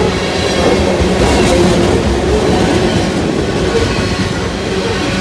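Loaded coal hopper cars of a freight train rolling past: steady rumble and clatter of steel wheels on the rails, with faint steady tones over the noise.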